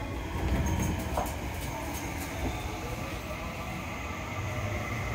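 Running sound of a Seibu 30000 series commuter train from inside the car: steady rumble with wheels clicking over rail joints and points in the first couple of seconds. Near the end the Hitachi IGBT-VVVF inverter and traction motors begin a faint whine that rises in pitch as the train accelerates.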